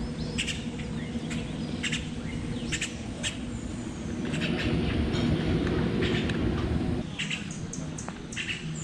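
Birds chirping in short calls, repeated every second or so, over a low background rumble that swells about four seconds in and drops away suddenly near seven seconds.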